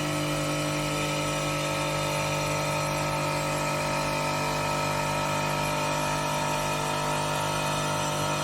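CNC stone-milling machine's spindle running steadily, a constant whine made of several unchanging tones.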